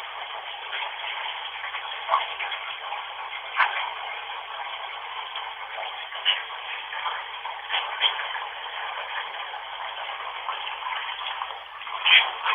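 Steady radio-style static hiss, thin and narrow as if from a small speaker, broken by brief crackling blips and snatches every second or two, the kind of output a spirit-box radio sweep gives.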